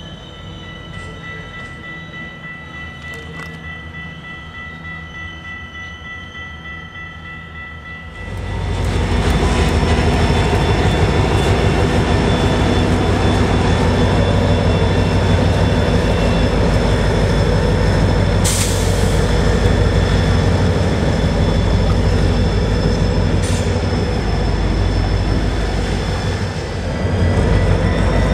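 Passenger train cars rolling away with a thin, steady high wheel squeal. About eight seconds in, this gives way abruptly to the loud, close sound of an EMD GP40-2-type diesel locomotive passing, its engine running with a deep steady hum under the wheel and rail noise.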